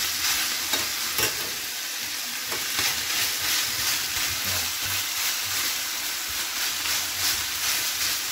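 Chicken breast pieces sizzling in olive oil in a frying pan: a steady frying hiss with scattered small crackles and pops.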